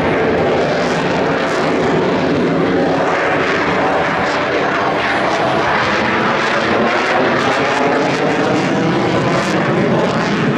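A fixed-wing airplane's engine, loud and steady, with a pitch that sweeps slowly as the plane flies by.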